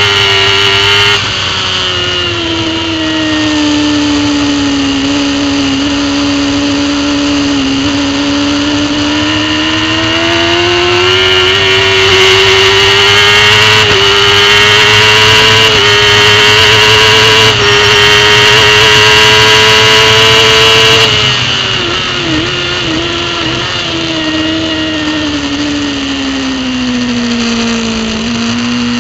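Racing superbike engine at high revs, heard from the bike with wind rush over the camera. Its pitch drops at a gear change about a second in, then climbs slowly through several small upshift steps, falls sharply about three quarters of the way through with short throttle blips as it downshifts into braking, and sags low near the end.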